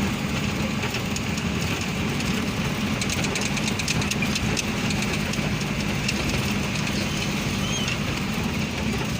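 A vehicle's engine running steadily on the move, with road noise and a spell of light rattling clicks about three to four seconds in.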